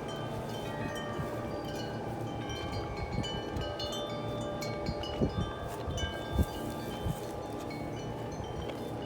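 A set of large tuned wind chimes ringing together in strong wind, many notes overlapping and sustaining. Wind rumbles on the microphone throughout, with a few low buffets between about five and six and a half seconds in.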